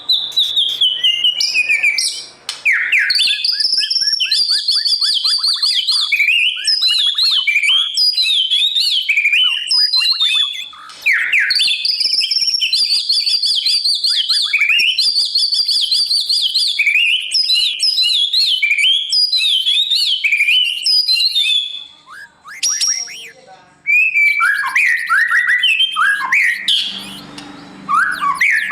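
White-rumped shama singing a long, varied run of rich whistled phrases with fast trills and chattering notes. The song breaks off briefly about eleven seconds in and again a little after twenty seconds.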